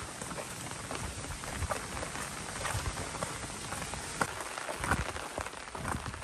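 Rain falling steadily, an even hiss with scattered louder drop taps.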